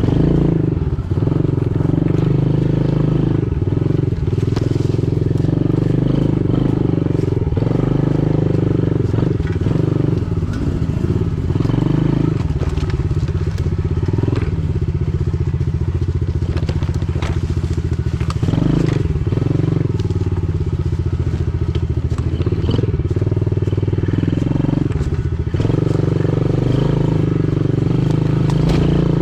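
Pit bike engine running as the bike is ridden along a trail, its pitch shifting with the throttle, with scattered short knocks and clatter.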